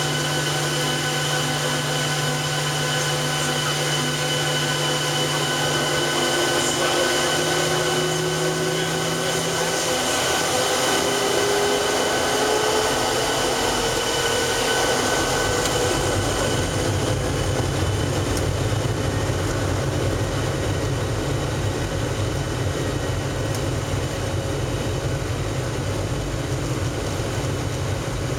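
Boeing 737-700's CFM56 jet engines heard from the passenger cabin: a steady engine noise with a slowly rising whine partway through as the engines spool up, then a deeper rumble building through the second half, typical of the take-off roll.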